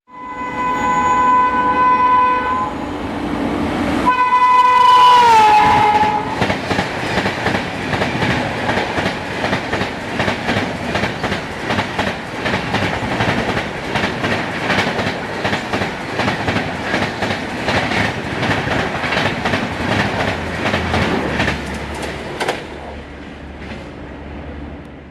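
WAP-7 electric locomotive horn sounding twice, the second blast dropping in pitch as the locomotive goes past. The passing train's wheels then clatter rapidly over the rail joints.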